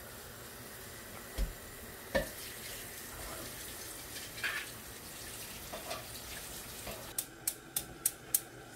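Onions cooking in a pot with a faint steady sizzle, a utensil knocking and scraping against the pot now and then. Near the end come five sharp clicks in quick succession.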